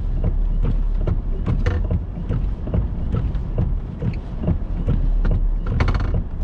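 Strong wind buffeting a vehicle under a tornadic storm, a steady low rumble with many irregular light ticks and creaks, and a brief squeak near the end.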